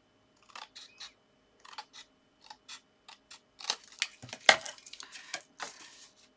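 Scissors trimming a thin strip off a piece of card: a few short separate snips, then denser, louder snipping and rustling of the card from about halfway, with a sharp knock a little after the middle.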